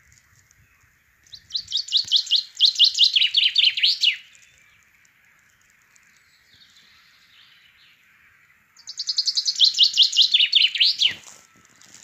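A songbird singing two phrases several seconds apart, each a rapid run of short high notes, each note sliding downward, the run dropping lower in pitch near its end.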